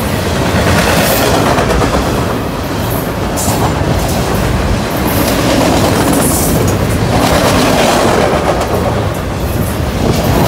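Double-stack container cars of a BNSF freight train rolling past close by: a loud, steady rush and rumble of steel wheels on the rails.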